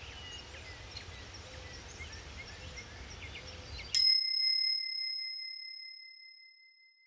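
Forest ambience with many birds chirping; about four seconds in it cuts off abruptly and a single timer bell rings, a clear ding that fades away over about three seconds, marking the end of a one-minute yoga set.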